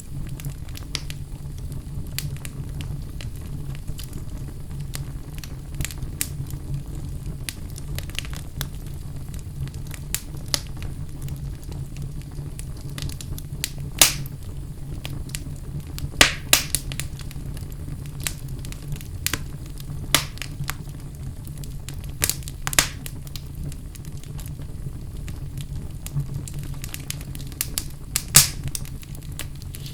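Fire burning in a fireplace: a steady low rumble under frequent sharp crackles, with a few louder pops scattered through.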